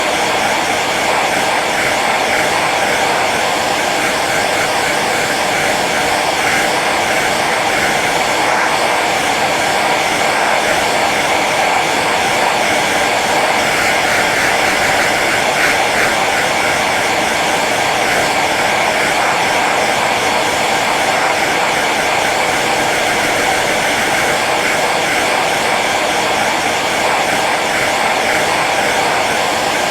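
Handheld hair dryer running steadily on its low setting: an even rush of blown air over the motor's whine.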